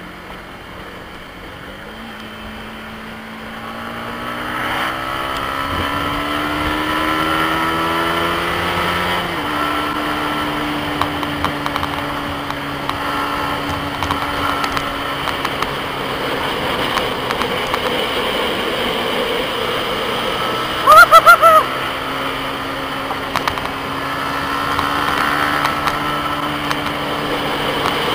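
Yamaha MT-15's single-cylinder engine heard onboard under acceleration: the revs climb for several seconds, drop sharply with an upshift, then hold fairly steady. About three quarters of the way through, four short, loud beeps cut in.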